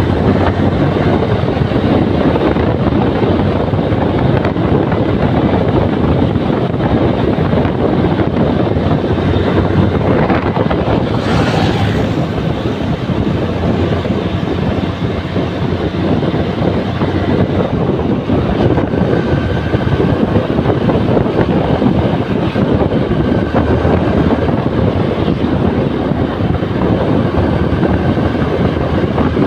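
Steady wind rush over the microphone of a Yamaha New Megapro motorcycle under way, with its single-cylinder engine running beneath it. A brief hiss comes about eleven seconds in.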